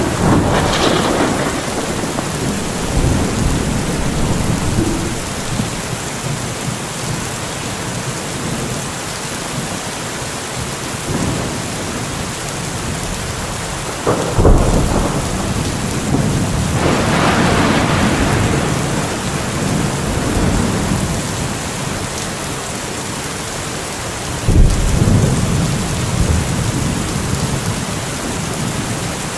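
Thunderstorm: steady heavy rain hissing, with rolls of thunder rumbling near the start and around the middle, and two sharp thunderclaps about halfway through and again near the end.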